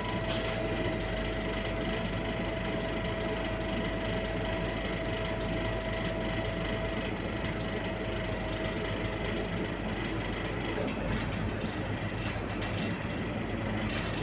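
Scania K230UB single-deck bus on the move: a steady drone of engine and road noise with a low rumble and a steady whine that fades out about two-thirds of the way through.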